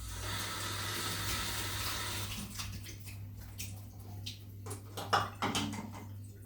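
Water running from a tap for about two and a half seconds, then stopping. A series of knocks and clatters follows, the loudest about five seconds in.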